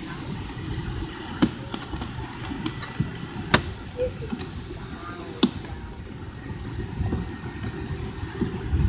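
Cabin noise inside a McDonnell Douglas MD-82 airliner on the ground before takeoff: the steady low rumble of its rear-mounted Pratt & Whitney JT8D engines, with a scatter of sharp clicks and rattles from the cabin, the loudest about three and a half seconds in.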